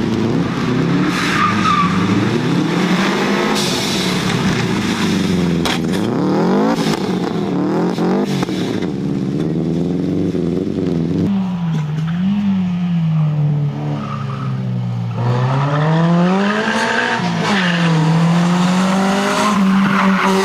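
High-performance car engine revving hard, its pitch swinging up and down again and again, with tyres squealing.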